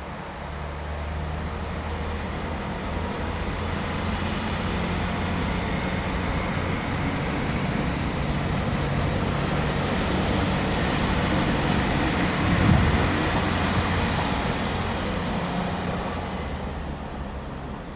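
A train passing, its running noise building, holding and then fading, with a low steady hum underneath and a brief louder knock near the middle.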